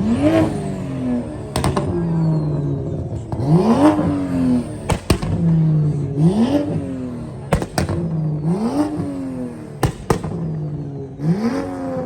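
A loud car engine revved repeatedly, about five times, each rev a quick rise in pitch that then drops back toward idle. Sharp brief cracks are heard between the revs.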